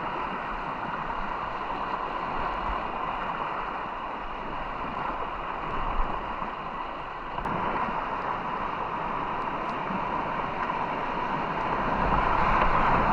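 Steady rush of white water from the river and falls in the canyon, an even hiss-like roar without breaks.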